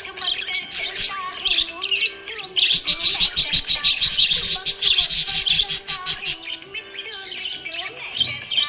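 Budgerigar chirping and chattering, with a fast run of rapid, high chirps from about two and a half seconds in to about six seconds in.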